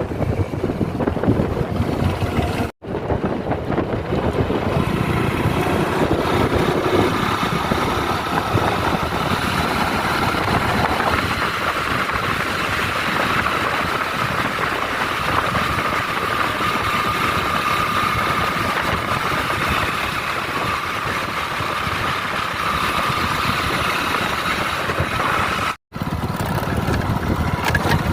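Motorcycle running while riding along a highway: a steady, even drone with a faint held tone, mixed with dense road noise, broken by two brief dropouts.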